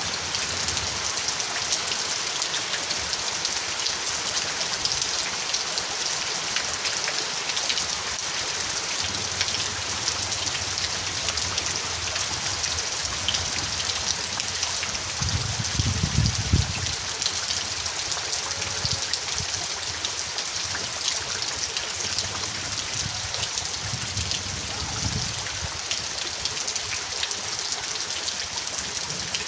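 Steady rain falling: an even hiss with many individual drops ticking. A brief low rumble comes about halfway through and again shorter near the end.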